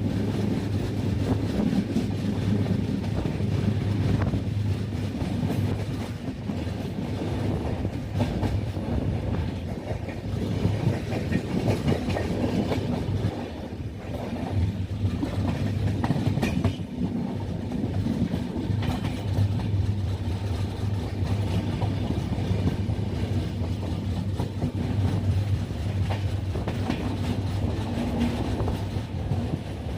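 Vaigai Superfast Express passenger train running along the track between stations: a steady low rumble with wheels clattering over the rails.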